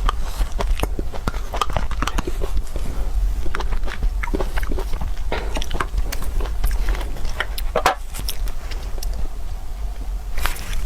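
Close-miked eating noises: a person biting and chewing food, heard as an irregular run of sharp clicks and crackles over a steady low hum.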